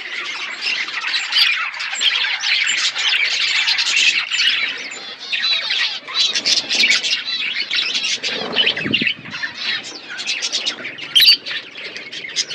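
A colony of budgerigars chattering and squawking, many birds calling over one another without a break. About eight to nine seconds in, a lower rustling sound joins the chatter.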